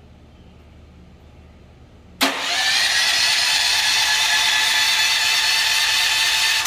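Westinghouse 9500 DF dual-fuel generator's electric starter cranking the engine on propane, starting suddenly about two seconds in and running steadily for about four and a half seconds before cutting off abruptly. The engine does not catch on this attempt.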